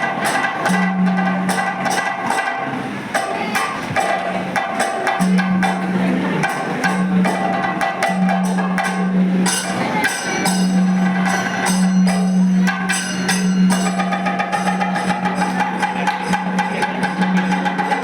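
Kathakali accompaniment music: dense, rapid percussion strokes with a bright, jingling metallic edge. Under them runs a steady low held tone that breaks off and comes back every second or two.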